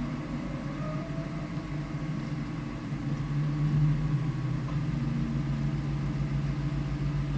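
Car engine running steadily at low revs, an even low hum with no revving.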